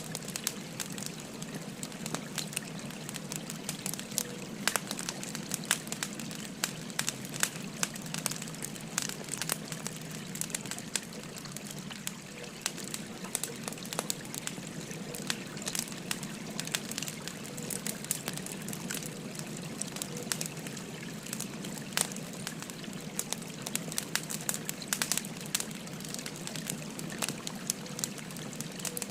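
Burning firewood crackling with frequent irregular sharp pops, over the steady rush of a babbling river.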